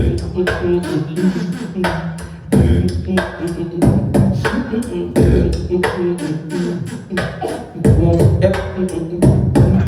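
A beatboxer performing a battle round: a fast, steady rhythm of sharp mouth-made percussive hits over held low hummed tones.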